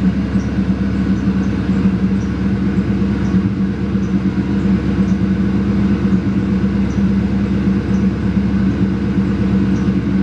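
Ford Mustang GT's 4.6 L V8 idling steadily through newly fitted Flowmaster mufflers with no tailpipes on yet, an even, rapid exhaust pulse.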